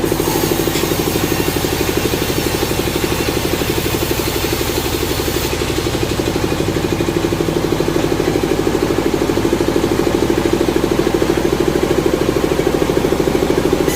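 Sawmill engine running steadily with a fast, even pulse.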